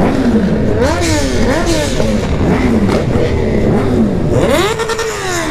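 Several sport motorcycle engines revving at once, their pitch climbing and dropping in quick overlapping blips, with one long rev near the end.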